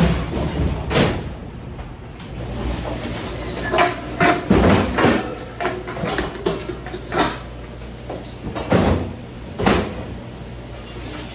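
Irregular knocks and clatters: half a dozen or so sharp hits spread over several seconds, a cluster of them about four to five seconds in, over a steady low hum.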